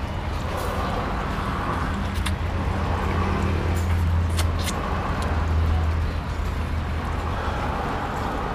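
A motor vehicle passing on the road. Its low engine hum swells and then fades, with a few light clicks over it.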